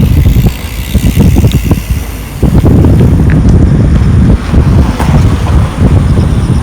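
Wind buffeting the microphone, an irregular low rumble that gusts harder from about halfway in.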